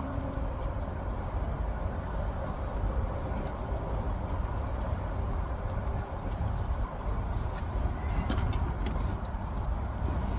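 Steady low rumble of motor-vehicle noise, with a few faint clicks over it.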